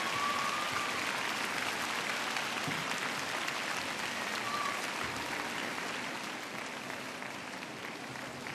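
Large arena crowd applauding steadily, easing off slightly toward the end.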